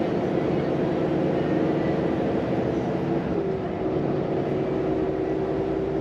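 Volvo FM truck's diesel engine running under way, heard from inside the cab as a steady drone with road noise. Its pitch shifts slightly about halfway through and then holds steady.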